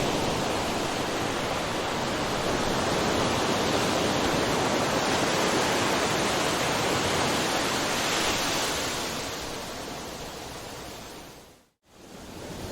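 Ocean waves rushing on a shore in a steady roar of surf. It fades out near the end to a moment of silence, then swells back in.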